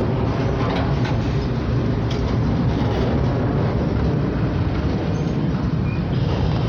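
Long freight train's cars rolling past on the rails, a loud steady rumble with faint wheel clicks.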